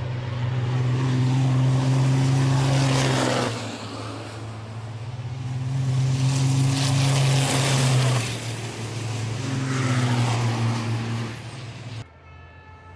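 Turbo-diesel racing trucks driving past one after another at speed, their engine noise swelling and fading three times. About 12 seconds in the sound cuts abruptly to a much quieter background.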